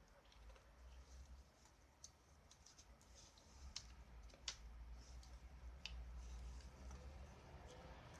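A few faint, sharp clicks scattered through the quiet, the loudest about four seconds in, over a low steady hum.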